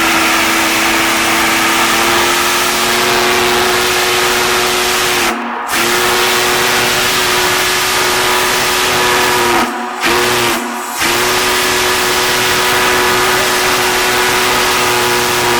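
Union Pacific Big Boy No. 4014's steam whistle sounding a loud chord of several tones over steam hiss, in the long, long, short, long pattern of the grade-crossing signal: the first long blast ends about five seconds in, the second runs about four seconds, a short toot follows just after ten seconds, and a last long blast holds to the end.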